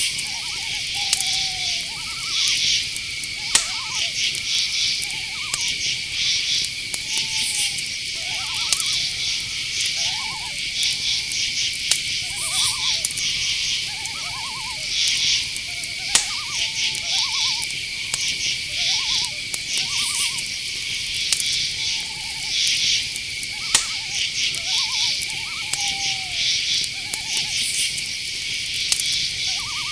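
Night chorus of crickets and other insects: a steady high trill with pulsing buzzes above it. Short mid-pitched calls, some falling in pitch, repeat throughout, and a few sharp clicks stand out at about 3.5, 16 and 24 seconds.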